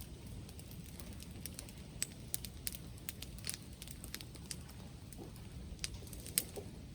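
Wood fire crackling, with irregular sharp pops and snaps over a low steady rumble; the loudest pop comes near the end.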